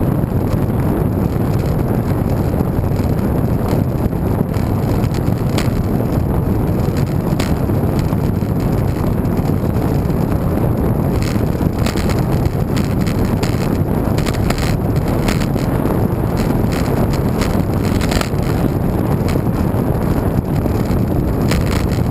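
Wind buffeting the microphone of a camera riding on a moving road bike: a loud, steady low rumble, with scattered sharp clicks and knocks from the bike and the road.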